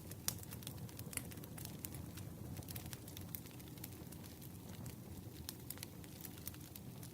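Wood campfire crackling: scattered sharp snaps and pops over a steady low rumble of burning, with one louder pop just after the start.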